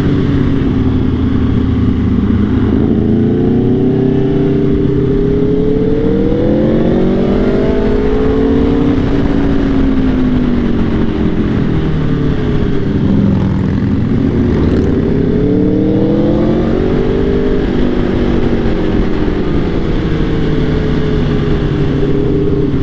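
Motorcycle engine running at speed, its pitch climbing for several seconds and then dropping as the rider accelerates and slows, several times over, with a steady rush of wind noise throughout.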